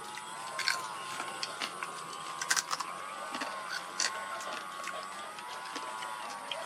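Irregular sharp clicks and cracks of crab shell being bitten and crunched while eating, the loudest about two and a half seconds in. Behind them runs a steady, slowly wavering hum.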